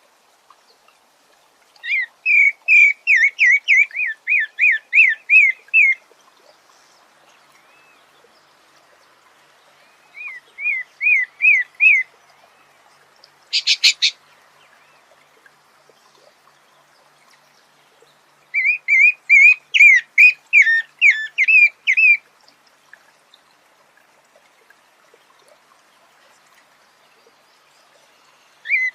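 A sabiá singing in phrases of rapid, repeated clear notes, about three a second. Each phrase lasts a few seconds, with pauses of several seconds between them. A short harsher call comes in the middle, and a new phrase starts near the end.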